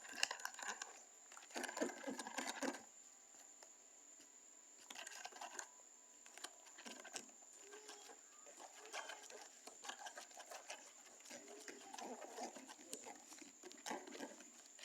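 A spoon stirring a thick, wet homemade slime mixture in a container, with irregular small clicks and squishy patter. The clicks are busiest in the first few seconds and then come sparse and intermittent.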